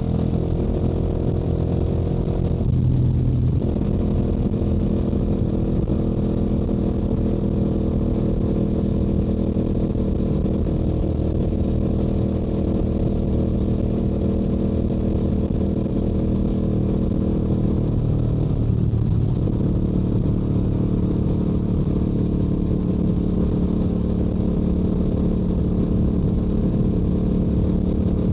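Stock exhaust of a Yamaha YZF-R7's 689 cc parallel-twin engine running steadily at highway cruising speed. The note breaks briefly twice, about three seconds in and again about two-thirds of the way through, settling at a slightly lower pitch each time.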